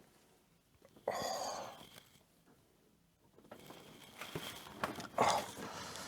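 A breathy exhale about a second in, then small clicks and rustling from handling the plastic parts of a Gunpla model kit, with a sharper click about five seconds in.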